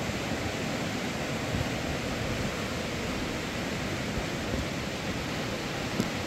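Steady outdoor rushing noise with no distinct events, and one brief click near the end.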